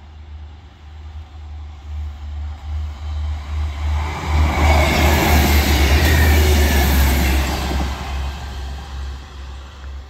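Northern Class 158 diesel multiple unit passing at speed. Its rumble and wheel-on-rail noise build up over the first few seconds, are loudest for about four seconds as it goes by, then fade away.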